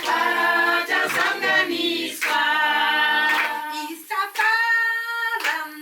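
A group of voices singing together in long held notes, with sharp hand claps through the song.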